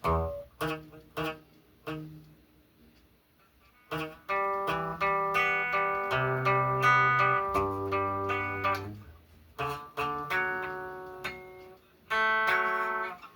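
Guitar chords played by hand: a few short plucked strokes, a brief pause, then a run of ringing strummed chords changing every second or so, with a final chord near the end that is stopped short.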